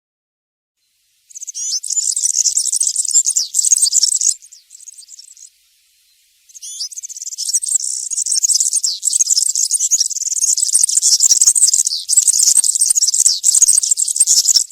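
European serin singing its rapid, high-pitched twittering song in wild 'campero' style. After about a second of silence comes a bout of about three seconds, then a short pause and a longer bout that carries on.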